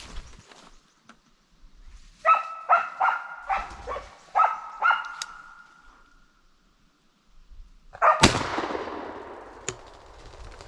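A dog barks six times in quick succession, about two barks a second. About 8 seconds in, a single gunshot cracks and echoes away slowly.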